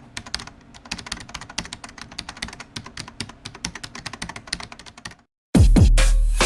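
Rapid clicking of computer keyboard typing for about five seconds. After a brief silence, much louder electronic music with deep bass hits begins.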